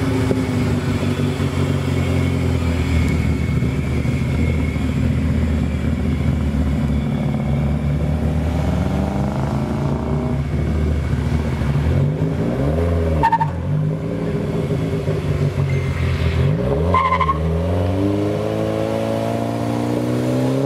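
Ford Focus hatchback engine running steadily, then revving up and down in several rising-and-falling sweeps from about halfway through as the car pulls away.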